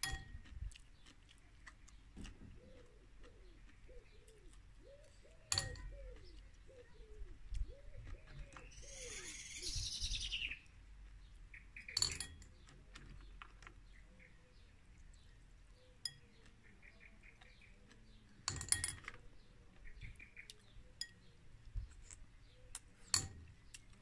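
Garden birds calling: a run of low repeated cooing notes, with a brief burst of higher chirping near the middle. Sharp clinks of sea snail shells come a few times, the loudest of them around 5, 12, 18 and 23 seconds in.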